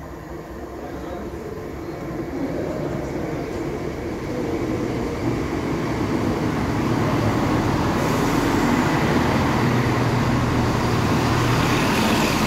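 ScotRail Class 170 Turbostar diesel multiple unit arriving at a platform, its diesel engines humming and its wheels running on the rails. The sound grows steadily louder as it approaches, with the hiss and rumble of the wheels building about two-thirds of the way through as the train passes close by.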